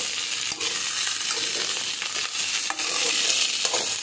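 Cauliflower and potato pieces sizzling in hot oil in a metal kadhai while being stirred with a slotted metal spoon, which scrapes and clicks against the pan a few times.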